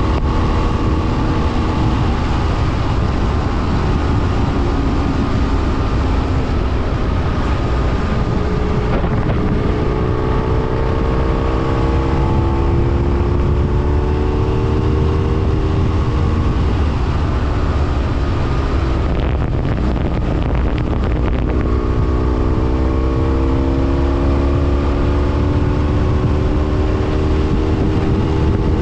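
BMW F800R's parallel-twin engine pulling under acceleration, its note climbing steadily, then dropping back about two-thirds through and climbing again, over a steady rush of wind and road noise.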